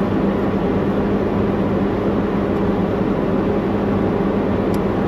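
Diesel semi-truck engine idling steadily, a constant low hum with a droning tone.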